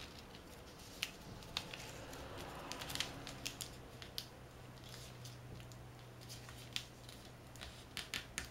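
Square origami paper being folded and creased by hand: scattered crisp crackles and taps of paper, spaced out rather than continuous.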